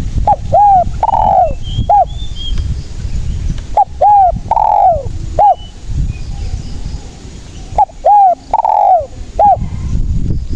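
Spotted dove (tekukur) giving its cooing song three times, each phrase four coos: a short note, an arched coo, a longer arched coo and a short closing note. A steady low rumble runs underneath, with faint chirps of other birds.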